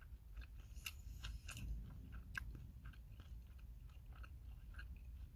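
A person chewing a mouthful of kimbap close to the microphone, with faint wet clicks and small crunches at irregular intervals.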